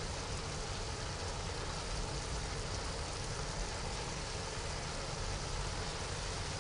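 Chicken and vegetables sizzling in a pan as they are stir-fried with soy sauce and vinegar: a steady hiss with a low rumble underneath.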